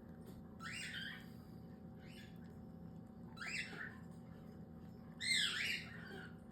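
Baby cockatiel giving short rising food-begging calls while being hand-fed, four of them about every second and a half, the last the loudest.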